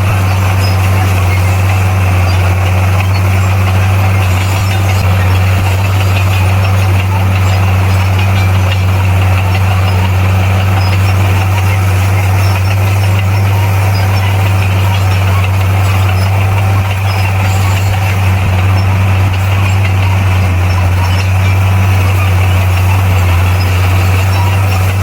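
Bulldozer's diesel engine running steadily at a constant low pitch, with no change in speed.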